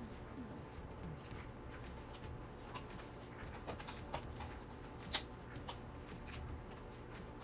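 Faint rustling and scattered small clicks of something being handled, over a low steady hum, with one sharper click about five seconds in.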